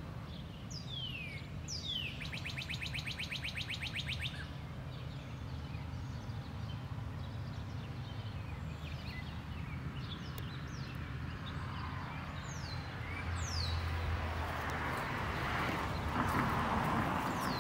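Birds calling outdoors: short, high, downward-sliding notes and a fast, buzzy trill lasting about two seconds, over a steady low hum. A rush of broad noise swells up near the end.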